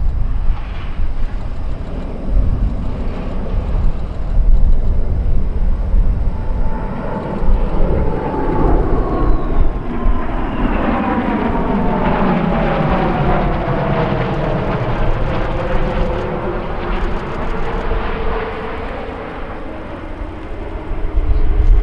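USAF B-2 Spirit stealth bomber's four turbofan engines during a flyby. The jet noise builds about six seconds in, and a whine falls steadily in pitch as the bomber passes, then fades near the end. Wind buffets the microphone throughout.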